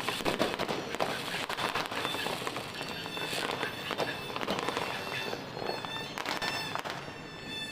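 New Year fireworks and firecrackers going off in dense, overlapping bangs and crackles.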